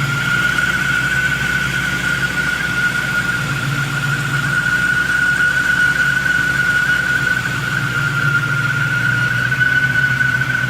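1996 Ford Mustang Cobra's 4.6 L V8 idling with a loud, steady high-pitched whine over the engine note. The owner says the whine is loud on cold starts and goes away after a couple of minutes.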